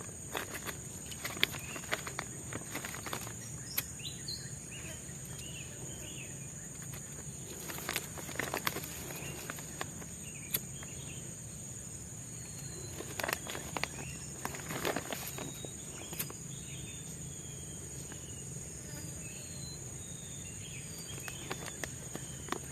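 Forest ambience: a steady high-pitched insect drone with scattered short bird chirps, broken by irregular close knocks and rustles, the loudest sounds, in clusters near the start, about a third of the way in and past the middle.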